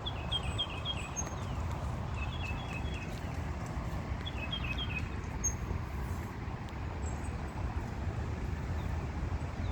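A songbird singing short phrases of quick chirped notes that alternate between two pitches, three phrases about two seconds apart in the first half, over a steady low rumble.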